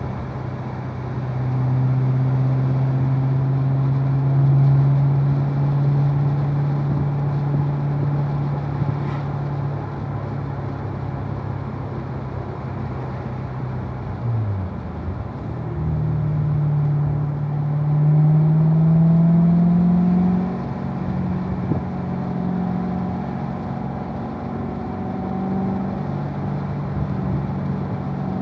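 2016 Chevrolet Corvette Z51's 6.2-litre V8 running at low revs under light load with a steady engine note over road noise. About halfway through, the revs dip briefly and jump as it shifts down from fourth to third. The note then rises as the car pulls in third and settles at a steadier, higher pitch.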